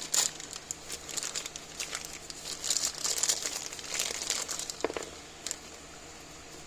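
Crinkling and rustling of packaging being handled, with small irregular clicks; it dies down in the last couple of seconds.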